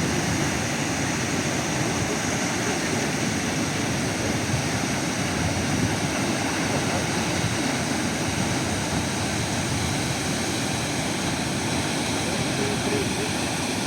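Waterfall pouring into the sea: a steady, unbroken rush of falling water, heaviest in the low range.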